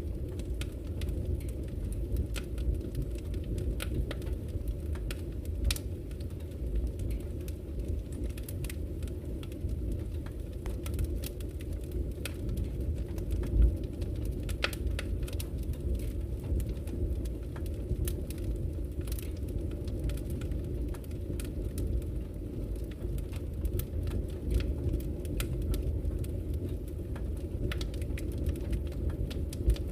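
Wood burning in a fireplace: a steady low rumble of flame with frequent sharp crackles and pops, one louder pop about halfway through.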